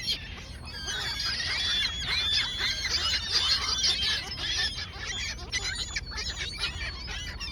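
A large flock of gulls calling all at once, crowding to be fed bread: many short, high, overlapping cries with no break, over a steady low rumble.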